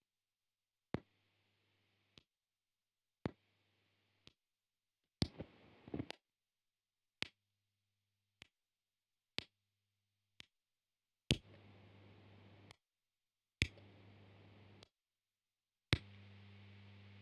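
Fuzz pedals switched on and off in turn, each with a sharp footswitch click at start and stop, leaving about a second of the pedal's own noise floor: mains hum with hiss that varies from one pedal to the next. Two stretches in the middle are almost only a faint hum; the last few carry louder hum and hiss.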